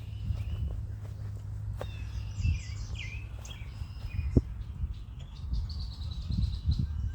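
Small songbirds chirping and trilling in short scattered calls over a steady low outdoor rumble, with a few soft thumps, the sharpest about four seconds in.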